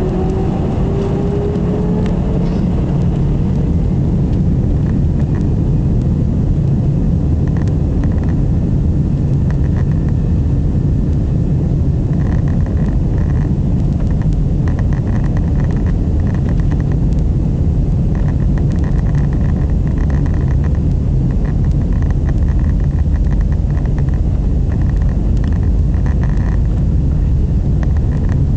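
Airbus A320 jet engines spooling up for takeoff: a whine rises in pitch over the first couple of seconds, then gives way to a steady, loud low rumble of the takeoff run and climb.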